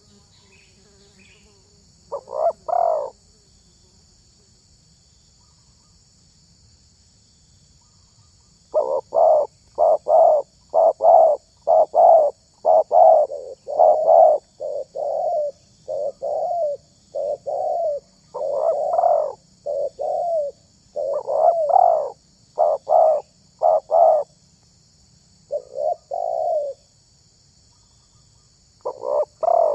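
Spotted dove cooing in repeated phrases of short notes. It gives a pair of coos about two seconds in, then a long run of coos from about nine to twenty-four seconds, and a few more near the end.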